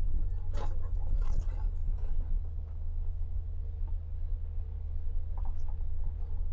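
Jeep's engine and drivetrain rumbling low and steady, heard from inside the cabin, with a few short rustling or clattering noises in the first couple of seconds.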